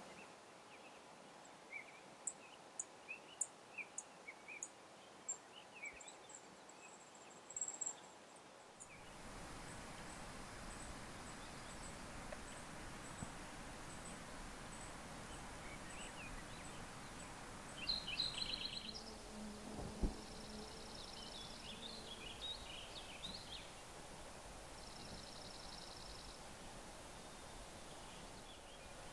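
Outdoor natural ambience with small birds chirping and trilling. After about nine seconds a steady background hiss comes up, and there is a single low thump about twenty seconds in.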